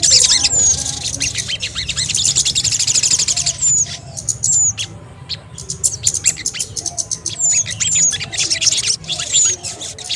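Bird-lure recording of sogon and kemede (bangcit) calling noisily: rapid, high chattering trills mixed with short, sharp down-slurred whistle notes repeated many times, over a low steady hum.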